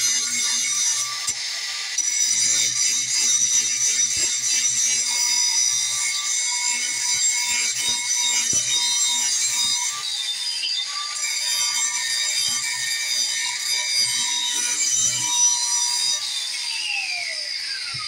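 Battery-powered angle grinder grinding the edge of a steel mower blade, a steady high whine. Near the end the trigger is released and the pitch falls as the disc spins down.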